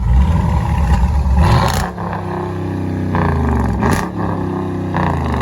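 2019 Dodge Challenger R/T's 5.7 L HEMI V8, with its mid muffler deleted, revved hard, then blipped twice more; each time the revs fall back toward idle with a falling pitch.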